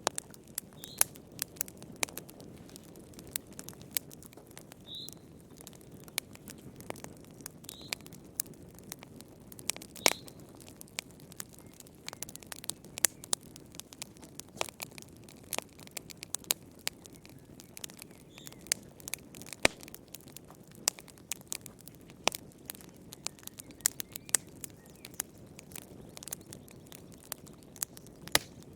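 Wood fire burning in a fireplace: frequent irregular sharp crackles and pops over a steady low rush of the flames.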